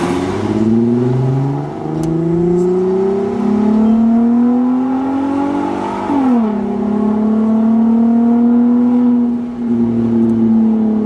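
Volkswagen Golf R32's VR6 engine heard through a kreissieg valvetronic cat-back exhaust, pulling with its pitch climbing for about six seconds, then dropping sharply and running at a steady pitch.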